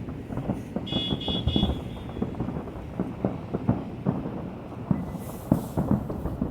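Aerial fireworks bursting in a dense, rapid series of low booms and thuds. About a second in, three short high beeps sound in quick succession, and near the end there is a brief high crackling hiss.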